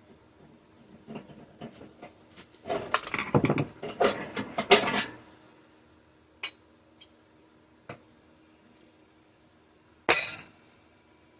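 Small metal parts and screws clinking and clattering as a microwave is taken apart. There is a busy spell of rattling clinks a few seconds in, then a few single clicks, and one sharper clink near the end.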